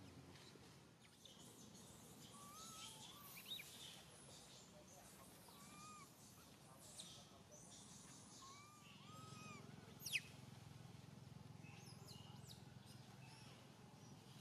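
Faint outdoor ambience of birds chirping now and then in short arched notes, over a soft high hiss. One sharp falling chirp stands out about ten seconds in.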